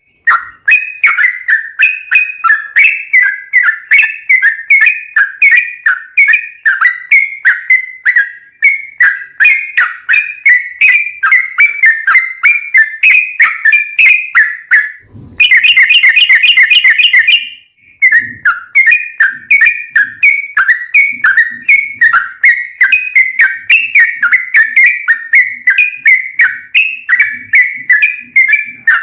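Yellow-vented bulbul (trucukan) singing a long, unbroken run of rapid, repeated chirping notes, several a second. About halfway through there is a short, denser trill, then a brief pause before the run resumes.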